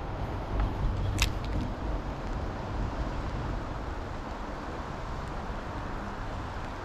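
Steady outdoor background noise with a low rumble, and a single sharp click about a second in.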